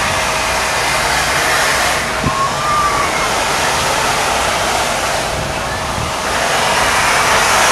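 Steady rushing noise of Union Pacific 4014's train rolling slowly past as the locomotive shoves it back, with a faint brief whine about two seconds in.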